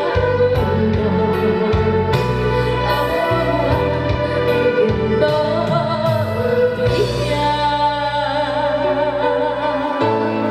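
Live Chinese traditional orchestra music accompanying a woman singing, with sustained notes over a steady low bass; a held note wavers with vibrato partway through.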